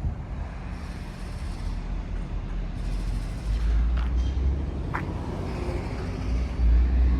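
Low rumble of a car idling and creeping forward, heard from inside the cabin, swelling twice, with a couple of faint clicks.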